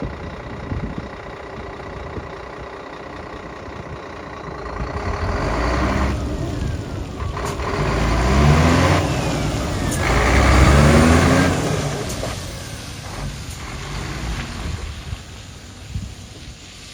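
Scania 114 380 truck's 11-litre six-cylinder PDE diesel running steadily, then revving up in three rising sweeps before dropping back and fading.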